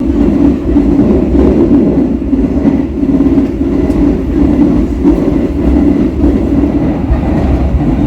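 A train running, a loud steady rumble.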